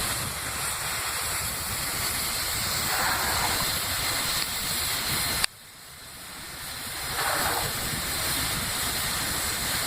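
Steady hiss of steam from the Peppercorn A1 4-6-2 Pacific steam locomotive 'Tornado' standing at rest, with a low rumble underneath. The sound drops out abruptly about halfway through and swells back over the next two seconds.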